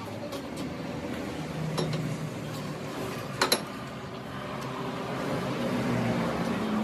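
Steady machine hum with a few sharp metal clinks, the loudest a quick pair about three and a half seconds in.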